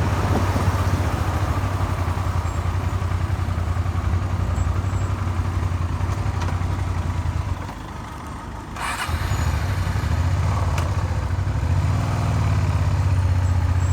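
Suzuki SV400's V-twin engine running while riding, with a knock that the rider puts down to a crankshaft crudely repaired with a file. The engine sound drops away for about a second just past halfway, then picks up again.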